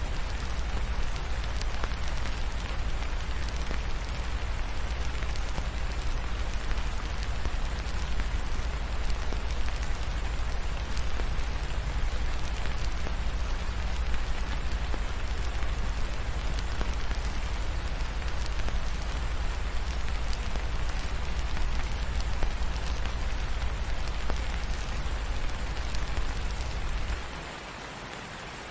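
Steady rain falling, an even hiss over a heavy low rumble. The rumble cuts out and the overall sound drops noticeably about a second before the end.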